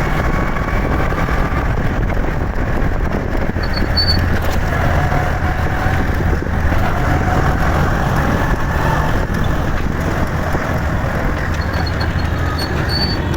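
Motorcycle on the move in road traffic: a steady low engine drone under continuous road and wind noise.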